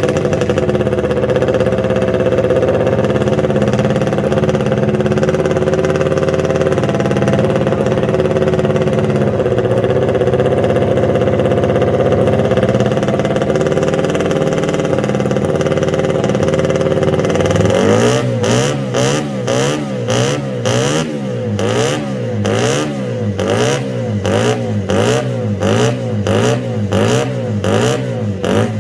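Honda RC142's 125 cc twin-cylinder racing engine running at a steady, held speed, then, from about two-thirds of the way in, blipped over and over so the revs rise and fall a little more than once a second.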